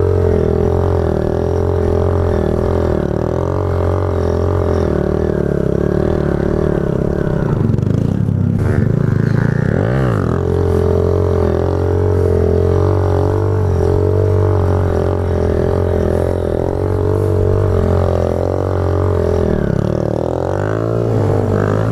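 Single-cylinder motorcycle engine running at steady revs under the rider. It eases off about eight seconds in, picks back up around ten seconds, and wavers again near the end.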